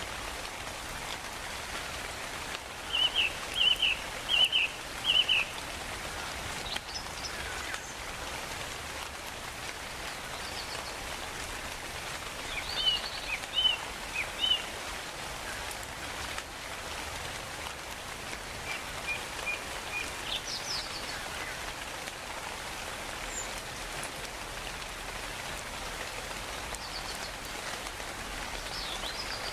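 Steady rainfall, with birds calling over it: two clusters of short repeated chirps, about three seconds in and again around thirteen seconds in, stand out loudest, and a few fainter single calls come and go.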